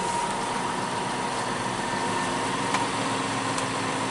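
Fendt 211 tractor running steadily while driving, heard from inside its cab, with a steady whine over the even engine noise.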